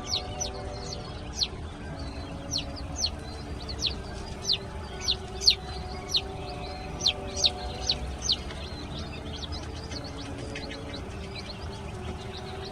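Chicks peeping: short, sharp, high-pitched peeps, each dropping in pitch, about two a second, thinning out after about eight seconds.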